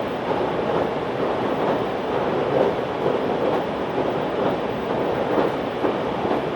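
Steady running noise heard inside a JR 383 series tilting electric train at speed: wheels rolling on the rails and the car body in motion.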